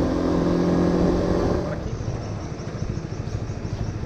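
Honda Winner 150's single-cylinder four-stroke engine running at a steady speed, then easing off about two seconds in to a rapid, even, lower pulsing as the motorbike slows.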